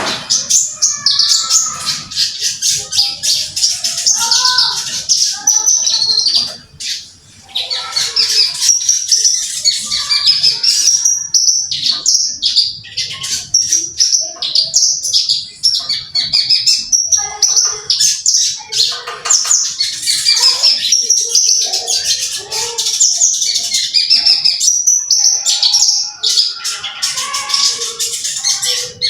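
Branjangan (Horsfield's bush lark) singing nonstop, a rapid run of high chirps and trills with one brief pause about seven seconds in.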